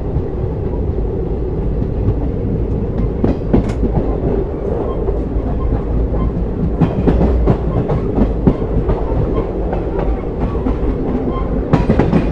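Moving train heard from on board: a steady low rumble with the wheels clacking irregularly over rail joints, and a quick run of clacks near the end.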